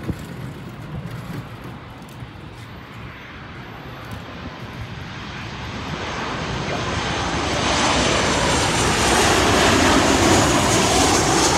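Jet airliner on final approach passing low overhead, its engine noise building steadily over several seconds to a loud peak near the end, with a high whine from the engines above the rush.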